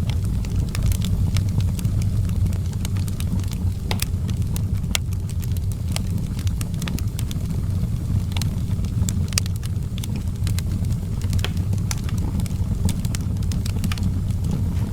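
Wood fire burning in an outdoor fireplace: a steady low rumble with frequent irregular sharp crackles and pops.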